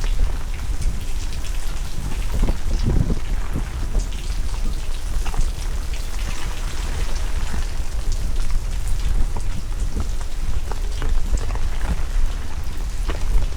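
Heavy rain falling, with many separate drops striking close by as short sharp ticks. A steady low rumble of wind buffets the microphone.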